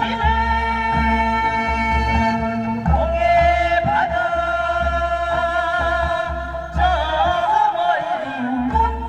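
A singer sings a Korean Namdo folk song (minyo), holding long notes with wavering, bending ornaments near the end, over musical accompaniment with a steady pulsing low beat.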